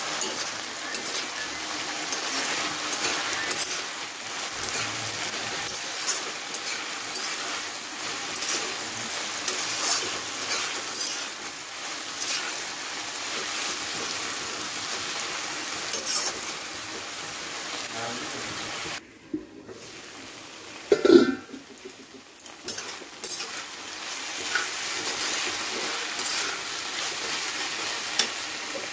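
Vegetables and greens sizzling in a wok while a spatula stirs them, clicking and scraping against the pan. About two-thirds of the way through the sizzle drops away for a couple of seconds with one brief loud thump, then the frying and stirring resume.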